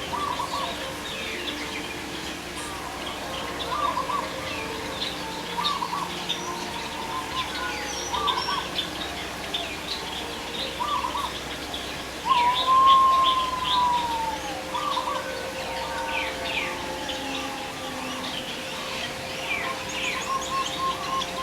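Many birds chirping and calling together, with short chirps overlapping throughout. About twelve seconds in, one loud, long whistled call rises and then falls away.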